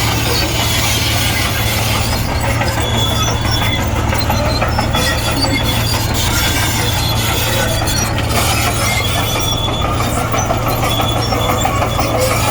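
Komatsu D58E crawler bulldozer working: its diesel engine runs steadily under a dense clatter of steel tracks, with short high squeals repeating every second or two.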